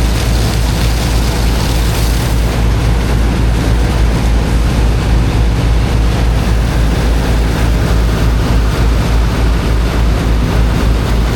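Engine of a high-pressure water pump running steadily under load with a deep, rapid throb, over an even broad hiss.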